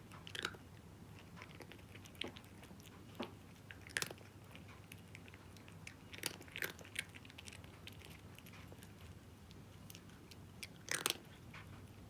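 A cat crunching dry kibble, in irregular bursts of sharp crunches with the loudest cluster near the end.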